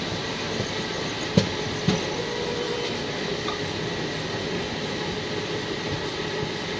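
Steady running noise of a moving train heard from on board, with two sharp clacks about a second and a half in, half a second apart.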